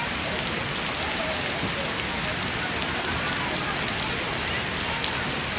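Heavy rain falling steadily, a dense even hiss with the sharp ticks of individual drops striking close by.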